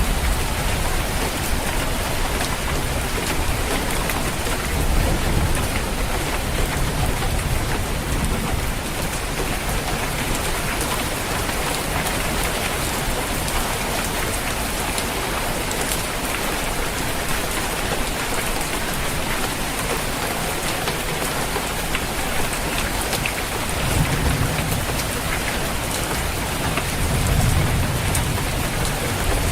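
Steady rain falling on a roof, with low rumbles of thunder about five seconds in and again near the end.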